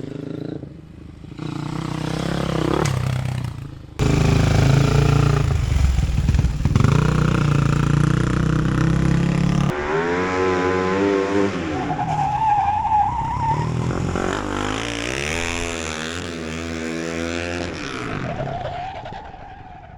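Flat track race motorcycle engine revving hard and easing off as the bike rides through corners, in several pitch climbs and drops. The sound jumps abruptly twice, about four and ten seconds in. A brief high squeal comes a little past halfway.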